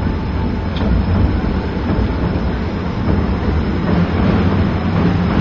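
DisneySea Electric Railway trolley cars running along their elevated track overhead, a steady rolling rail and wheel noise.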